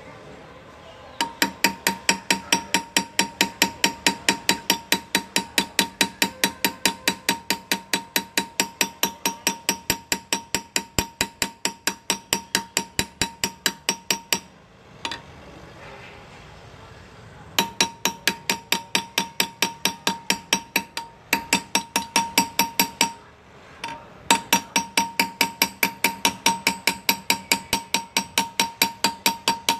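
Hand engraving on metal: a small engraving hammer taps a graver in a fast, even rhythm of about four to five strikes a second, each with a metallic ring. The tapping stops for about three seconds midway and pauses briefly again later.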